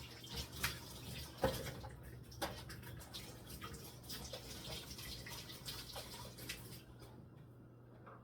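Water running from a tap and splashing, with a few knocks and clicks, the loudest about a second and a half in; it stops about seven seconds in.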